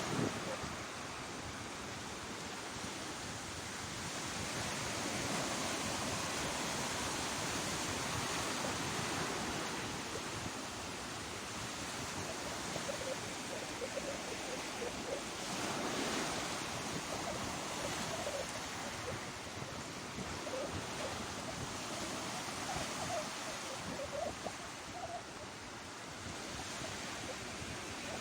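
Sea waves breaking and washing on the shore as a continuous surf noise, swelling and easing in slow surges, with some wind buffeting the microphone.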